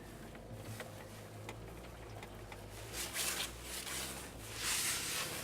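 Inside a car driving through deep snow: the engine runs with a low hum, and the tyres push through snow or slush with two rushing hisses, about three and five seconds in.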